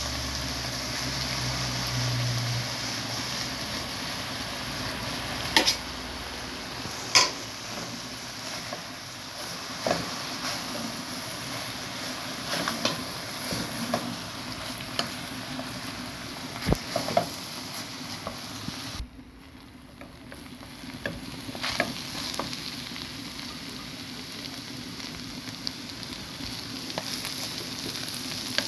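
Rice sizzling as it is stir-fried with vegetables and meat for fried rice, with a spoon clinking and scraping against the cookware every few seconds. The sizzle drops briefly about two-thirds of the way through, then carries on.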